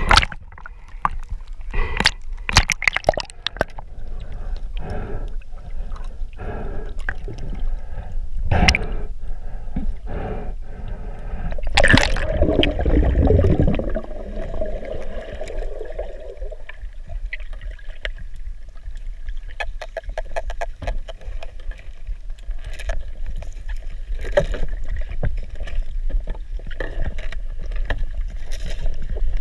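Underwater sound picked up by a GoPro: water gurgling, with scattered knocks and clicks. A louder rushing gurgle comes about twelve seconds in and lasts a few seconds.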